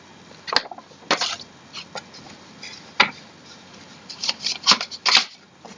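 Handling noise from assembling an office-style gaming chair: irregular knocks, clicks and rustles of parts being moved, with a sharp click about three seconds in and a busier run of knocks near the end.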